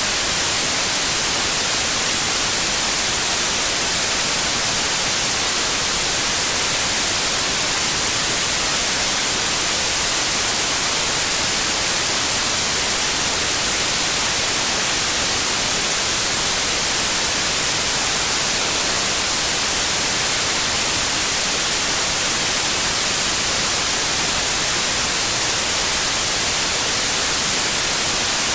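Steady, continuous white noise: an even hiss with no changes in level, brightest in the high treble.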